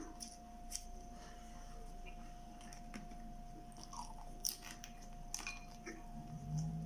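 Close-miked mouth sounds of a person chewing food: soft, irregular clicks and smacks, with a short low hum near the end.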